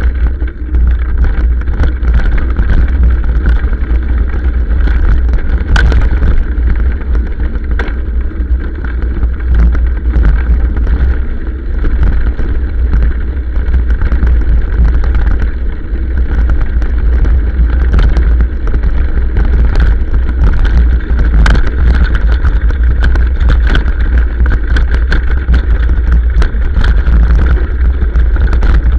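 Motorcycle ridden down a rough dirt trail, heard from on the bike: a loud, steady low rumble of the running machine and wind on the microphone, with frequent scattered knocks and rattles throughout.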